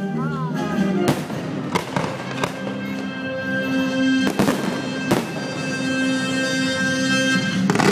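Fireworks going off over music for a musical fireworks show: about six sharp bangs at irregular intervals of one to two seconds, under sustained orchestral-style music. Near the end a last bang coincides with the music stopping.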